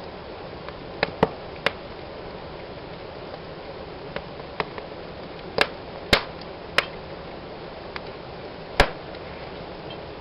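Fire burning in a fireplace, crackling: a steady soft hiss with about nine sharp pops scattered irregularly, the loudest pop near the end.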